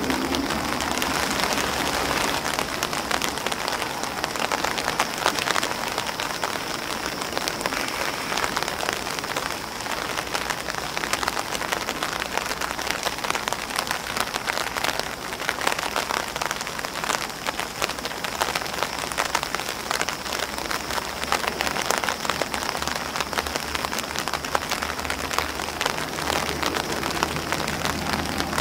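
Steady rain falling on an umbrella and grass leaves: a dense, even patter of countless drops.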